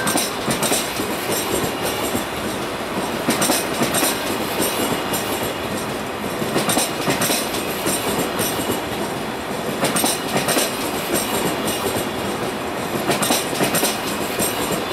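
A train running past on the track, with a steady rushing rumble and its wheels clacking over rail joints in pairs and small groups every few seconds.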